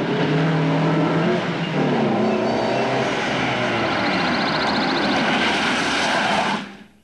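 Car engine revving and accelerating hard, with rising and falling pitch. It begins suddenly and cuts off abruptly about six and a half seconds in.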